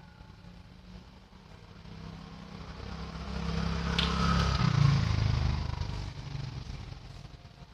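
A motor vehicle passing by: its engine builds to a peak about four to five seconds in and then fades away, with a short click near the peak.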